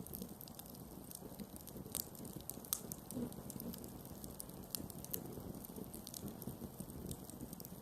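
Campfire burning with a steady low rustle and irregular sharp crackles and pops from the burning wood, the loudest pops about two seconds and just under three seconds in.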